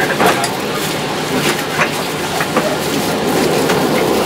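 KIHA 183 diesel railcar running along the track, a steady rumble of wheels on rails with irregular sharp clicks from the rail joints.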